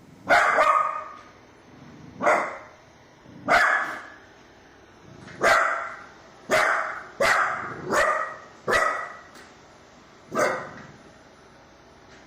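A dog barking at a robot vacuum it is frightened of: about nine short, sharp barks at uneven intervals, several in quick succession in the middle.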